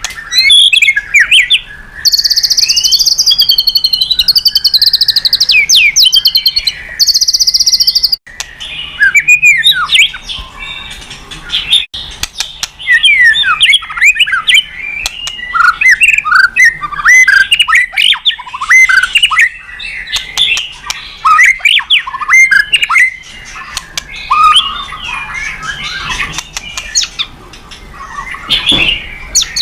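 White-rumped shama (murai batu) singing loudly and continuously. It starts with fast buzzy trills, then after about eight seconds shifts to a rapid stream of varied whistled and sliding notes, the rich song full of borrowed phrases that keepers prize.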